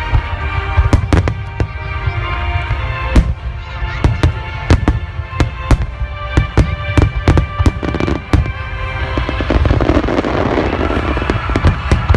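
Aerial fireworks bursting one after another in quick succession with sharp booms, over music from the show's loudspeakers. About ten seconds in, a dense crackling swells up.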